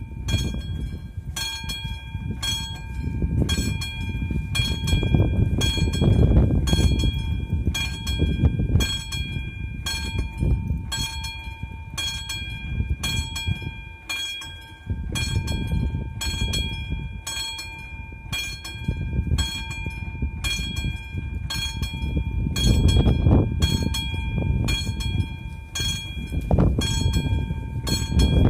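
AŽD 71 level-crossing warning bell (classic type) ringing steadily, about one and a half strokes a second, signalling that the crossing is closed. Underneath, a heavy low rumble of a train passing rises and falls several times.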